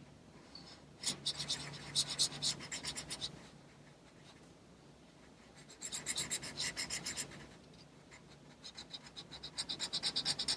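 Colouring in on paper: quick back-and-forth scribbling strokes in three spells, with short pauses between them.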